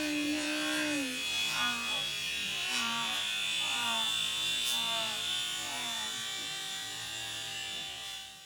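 Micro electric RC helicopter (E-flite Blade) running, a steady high-pitched motor and rotor whine that fades near the end, with soft pitched notes underneath.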